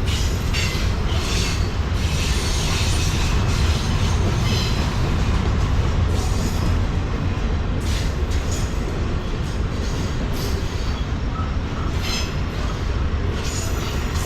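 Freight train rolling past on jointed track: a steady, heavy low rumble, with high-pitched wheel and rail noise flaring up now and then.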